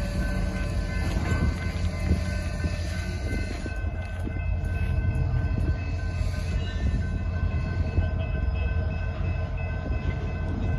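Freight train on the move: a steady low rumble with faint, thin, steady tones above it.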